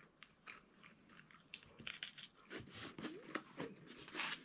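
A person chewing and crunching food: faint, irregular small crunches and mouth sounds, with a louder crunch near the end.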